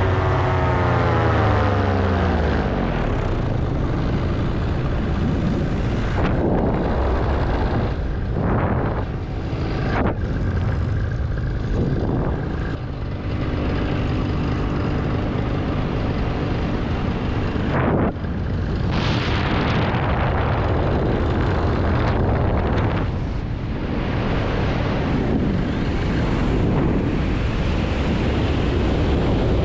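Paramotor engine and propeller throttling back, the pitch falling steeply over the first two seconds. Then the rush of wind over the microphone takes over as the wing flies, with the engine faint beneath it.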